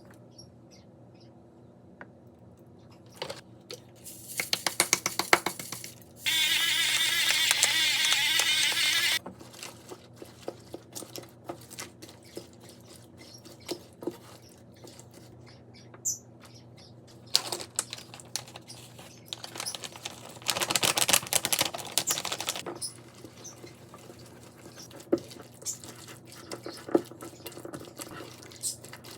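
Kitchen food-prep sounds: several bursts of rapid knife taps on a cutting board, typical of chopping vegetables. A few seconds in, a loud steady rushing noise lasts about three seconds.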